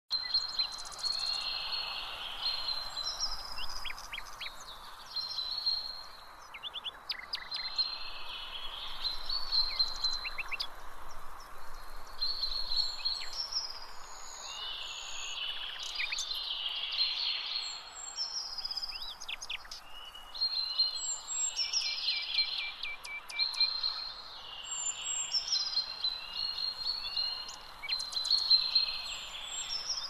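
Songbirds chirping and singing, many short calls and trills overlapping, over a steady background hiss.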